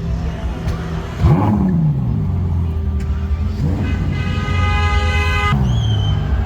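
Ferrari engine revved: a quick throttle blip about a second in, then a second rev held steady at high revs for about two seconds before it drops back to idle.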